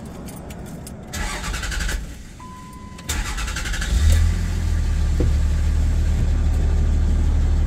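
A vehicle engine being started: the starter cranks briefly about a second in, a short steady beep sounds, then it cranks again and the engine catches about four seconds in and idles steadily.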